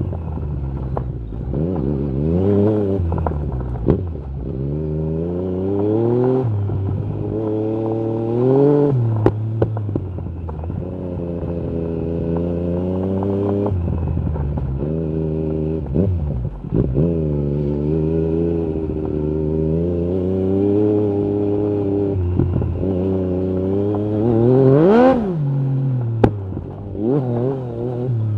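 Yamaha MT-09 SP three-cylinder engine through an Akrapovic carbon exhaust with the dB killer out, repeatedly revving up through the gears and easing off while riding. Sharp clicks come now and then. The hardest rev rises and drops sharply near the end.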